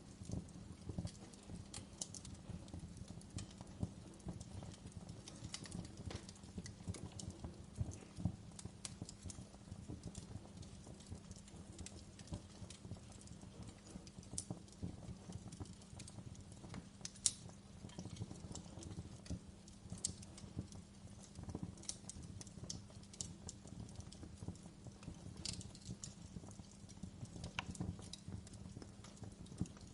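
Wood fire crackling in a fireplace: a steady dense low crackle with sharp pops at irregular moments throughout.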